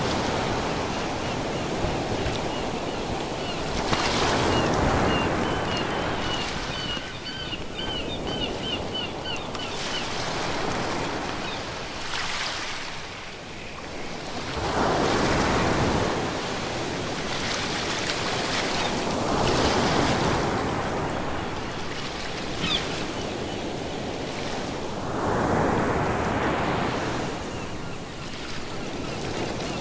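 Ocean surf: waves breaking and washing in, the rush swelling and falling back every few seconds. A run of quick, high, repeated chirps sounds over the surf from about a second in to about ten seconds in, and again briefly near the end.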